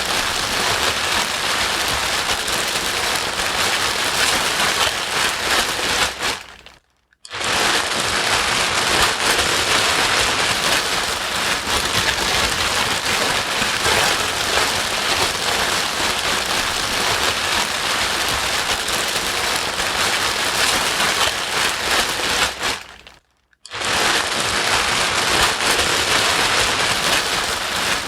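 Steady rain-like white noise, played to soothe a crying baby. It dips away to a moment of silence twice, about sixteen seconds apart, and comes straight back.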